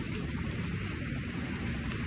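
Steady low rushing outdoor noise of wind and surf, with no distinct event standing out.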